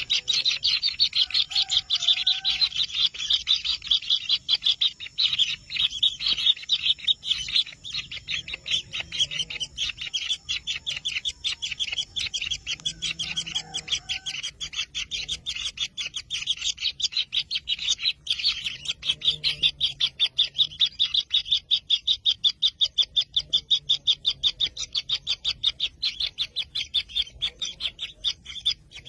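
Kingfisher nestlings in their burrow giving a continuous, rapid string of high-pitched begging chirps, several a second.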